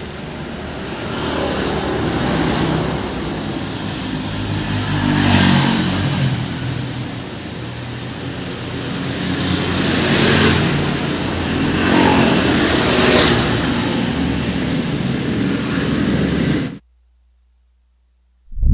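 Motor vehicles running and passing on a road, with several passes that swell and fade over a steady engine rumble. The sound cuts off suddenly near the end.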